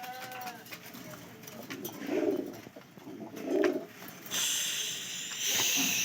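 Domestic pigeon cooing, with two low coos about two and three and a half seconds in, after a short higher-pitched call at the start. A steady hiss fills the last two seconds.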